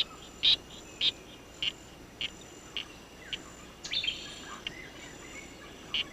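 Male poison arrow frog calling: a monotonous series of short, high chirps, about two a second and slowly spacing out. A steady high insect whine runs underneath.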